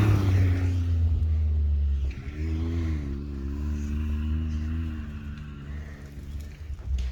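UTV engine running down in pitch as the machine slows after a run, then running at low revs with a slightly wavering tone. A single sharp click near the end.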